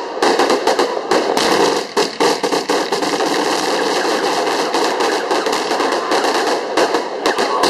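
Fireworks crackling: a dense, unbroken run of rapid small pops.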